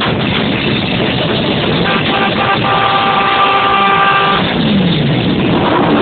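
Motorcycle engines revving, the revs falling away after a blip near the end, with a vehicle horn held steady for about two and a half seconds in the middle.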